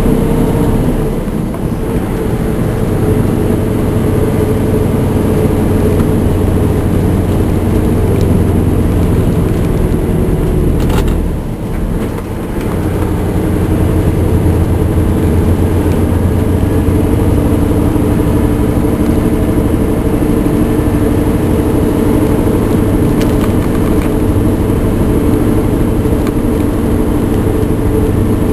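Scania R580's 16-litre V8 diesel pulling hard under a heavy load of about 41 tonnes, climbing a hill at a steady pitch. Its sound drops briefly with a click about eleven seconds in, then picks up again.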